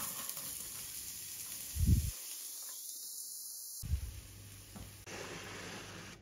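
Chopped onion sizzling in hot ghee in a frying pan: a steady hiss, with a dull low thump about two seconds in and a smaller one near four seconds.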